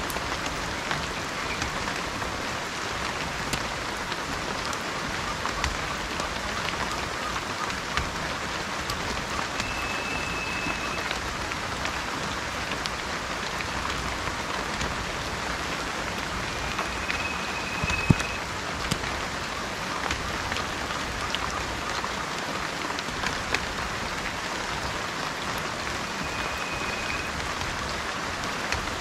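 Steady rain falling, with scattered drop taps and one louder tap about 18 seconds in. Three times, spaced several seconds apart, a bird gives a brief high whistled note over the rain.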